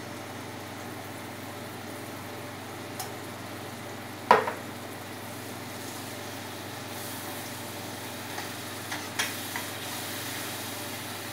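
Tomato puree sizzling in a hot stainless steel pot as a spatula stirs it, with a few light clinks and scrapes of the spatula on the pot. A single sharp clack about four seconds in, the loudest sound, as the emptied tin can is set down on the counter.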